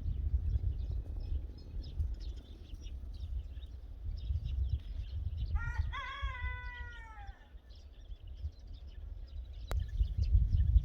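Small birds chirping with a low wind rumble on the microphone; about six seconds in, a rooster crows once, a call of about two seconds that rises, holds and falls away. A single short click comes near the end.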